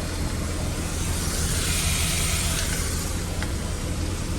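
Steady low vehicle engine hum, with a hiss that swells about a second and a half in and fades by about three seconds.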